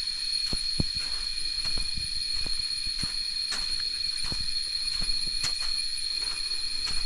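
Footsteps crunching and knocking through jungle leaf litter, several a second, unevenly spaced. Under them runs a continuous high-pitched insect drone in a steady, unchanging whine.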